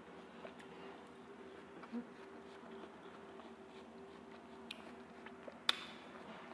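Watermelon being chewed with the mouth closed, with a few soft clicks, over a faint steady buzz. A sharper click comes near the end.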